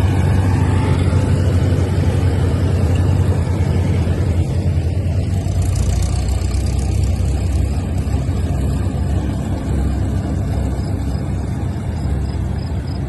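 Vintage tractor engine running steadily with a strong low, even pulse, heard over the noise of the ride.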